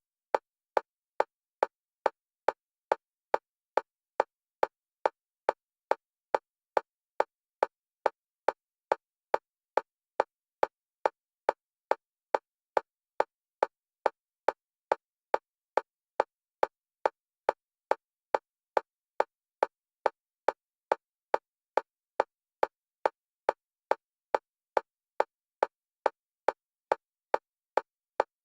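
Metronome clicks of one pitch for EMDR bilateral stimulation, alternating between left and right stereo channels, at an even rate of about two clicks a second with silence between.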